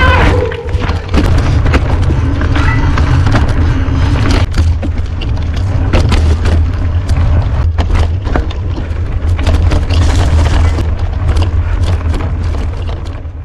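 Wind buffeting a mountain biker's action-camera microphone, a loud steady low rumble, with scattered clicks and knocks from the bike rattling over rough trail.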